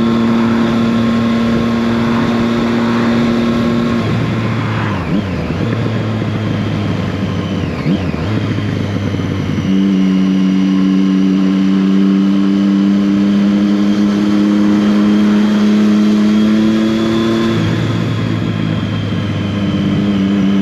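Triumph Street Triple 675R's inline three-cylinder engine running at a steady cruise over wind rush. Its note drops and recovers briefly twice, about 5 and 8 seconds in, then holds at a slightly different pitch, shifting again near the end.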